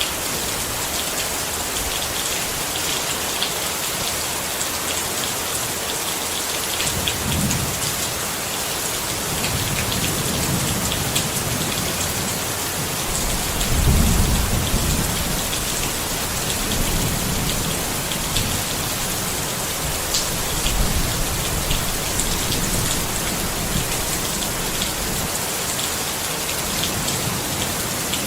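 Steady rain pattering on a tent, with fine separate drop ticks over a constant hiss. A roll of thunder rumbles low beneath it from about a quarter of the way in, at its loudest near the middle, then dies away.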